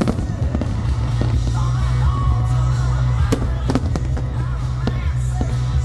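Fireworks going off: a steady low rumble of bursts with several sharp bangs, about three seconds in and again near the end. Music and crowd voices run underneath.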